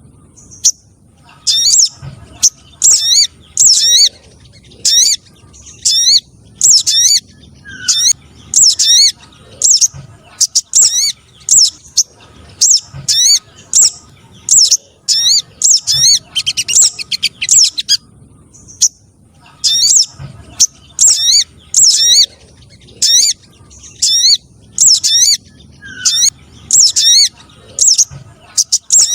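Recorded spiderhunter (sogok ontong) calls played as a bird-trapping lure: rapid series of sharp, high chirps in short bursts, with a brief pause about two-thirds of the way through.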